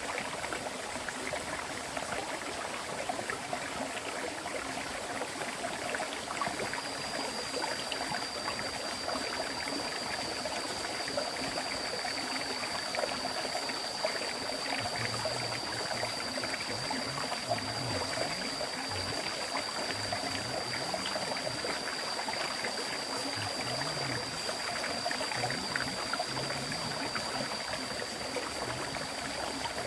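River stream flowing steadily, a continuous rush of water with fine splashing. A thin, steady high tone sits over it from about six seconds in.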